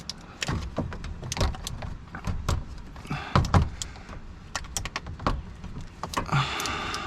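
Oil filter wrench clicking and scraping on a spin-on oil filter as it is twisted to break the filter loose: a string of sharp clicks and knocks, with two longer scraping passes, one around the middle and one near the end.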